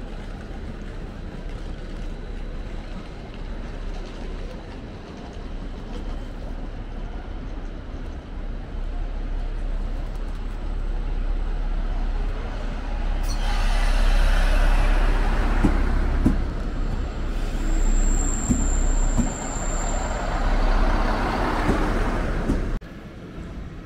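A train running along a station platform: a low rumble builds, then a loud rush of rolling noise sets in just past halfway, with a brief high-pitched squeal about three-quarters through. The sound cuts off suddenly near the end.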